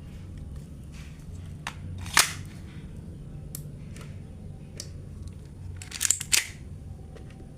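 Sharp mechanical snaps from a 6 mm toy Glock 34 pistol: one loud snap about two seconds in and a quick pair of snaps around six seconds, with a few fainter clicks over a low steady hum.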